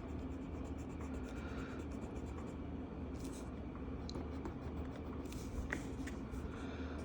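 Felt-tip marker strokes rubbing on a coloring-book page, faint and intermittent, over a steady low hum.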